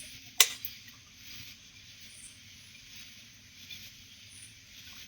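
A single sharp click or knock about half a second in, followed by a faint steady hiss of outdoor night ambience.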